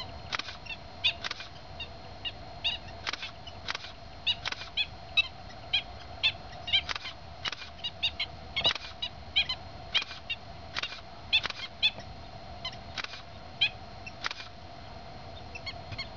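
Short, sharp bird calls and clicks, repeated irregularly about two or three times a second, over a steady drone.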